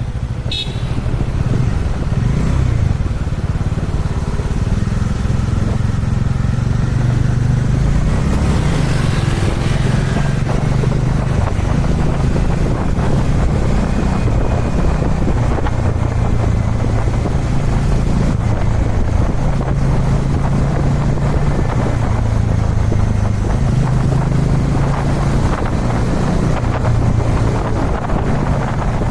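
Kawasaki Dominar 400's single-cylinder engine running under way, its note rising and falling several times with the throttle. Wind rushes steadily over the microphone.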